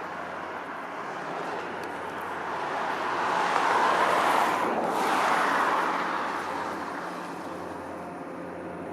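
A vehicle passes by: a steady rushing noise swells to its loudest about four to five seconds in, then fades away.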